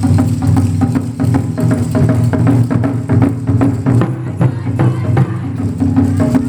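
Ensemble of Japanese taiko drums playing a fast, continuous rhythm of deep drum strokes, with sharp clicking hits on top.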